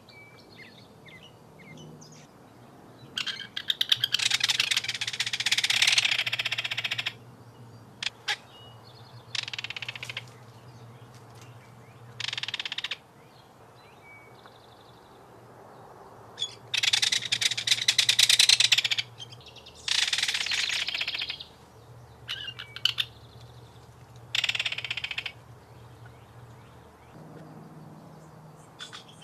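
Kingfisher giving loud, rapid rattling calls in repeated bursts of one to three seconds, with short quiet gaps between them.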